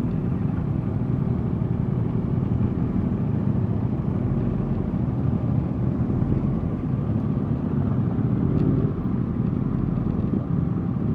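Suzuki GSX-R 1000's inline-four engine running steadily while riding, mixed with a low, even rumble of wind and road noise.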